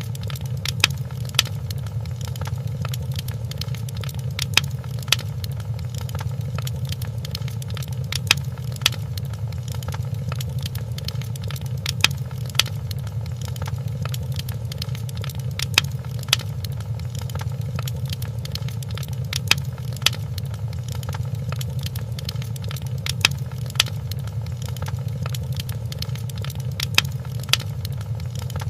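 Fireplace fire crackling: a steady low rumble with sharp pops that come in pairs about every four seconds.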